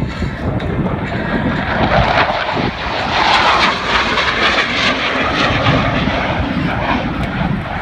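F-16 jet fighter flying past at an airshow, a loud jet roar that builds and is loudest about three to four seconds in.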